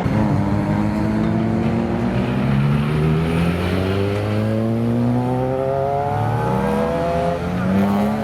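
Supercharged 998cc Kawasaki H2R inline-four engine in a Fiat 600L accelerating hard. Its pitch climbs steadily for about six seconds, then drops and rises again twice in quick succession near the end as it shifts up.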